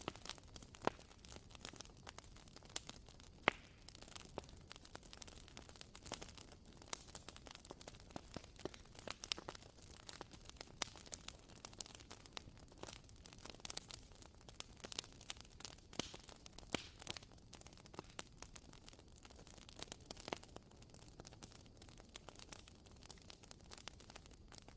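Wooden-wick candle crackling faintly: irregular soft pops and snaps, a few sharper ones, over a low hiss, like a small campfire.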